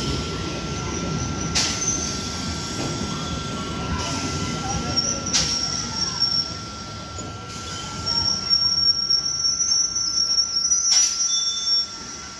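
Old EMU electric local train slowing along the platform to a stop: wheels rumbling on the rails, with high brake squeal setting in about halfway and growing louder until it cuts off suddenly as the train halts near the end.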